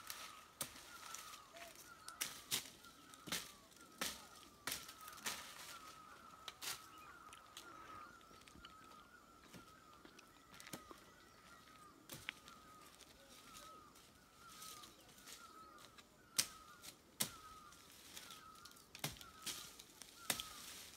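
A bird calling the same short chirp over and over, a few times a second, with scattered sharp snaps and cracks, the loudest sounds, from twigs and branches in a tree being climbed.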